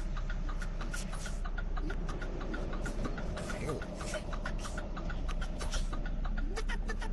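Semi truck's diesel engine running at low speed, heard from inside the cab while reversing, with a fast steady ticking over the hum.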